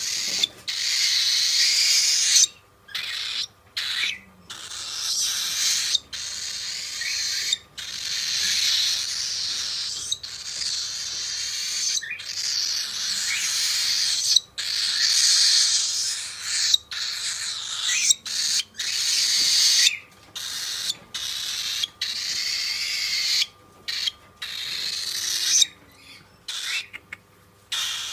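A cockatiel's raspy, hissing calls, coming in stretches of a few seconds with short silences between.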